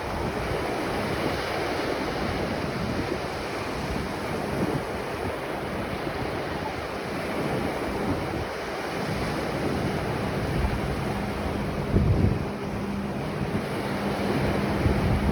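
Ocean surf washing steadily onto a beach, with wind buffeting the microphone in low gusts, loudest about twelve seconds in and again near the end.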